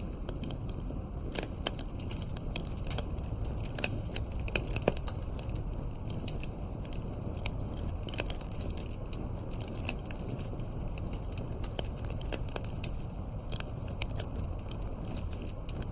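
Campfire burning: wood crackling with frequent, irregular sharp pops over a steady low rush of flame.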